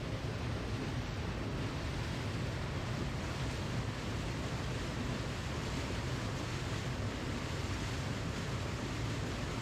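Waterfall, a steady rushing of falling water with no breaks or changes.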